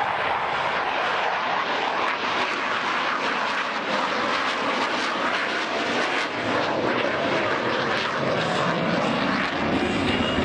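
Airplane engine noise from an air show display aircraft in flight: a steady, loud rushing drone with no distinct pitch, growing slightly fuller near the end.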